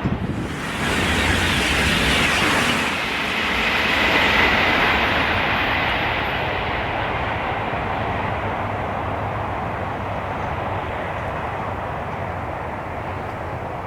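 High-speed train running through at speed: a rushing of wheels and air that is loudest over the first few seconds, then fades steadily as the train draws away.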